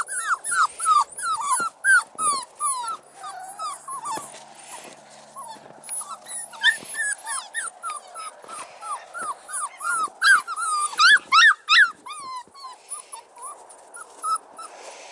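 Texas Heeler puppy whining and whimpering in a rapid string of short, high-pitched cries, with a louder flurry about ten seconds in.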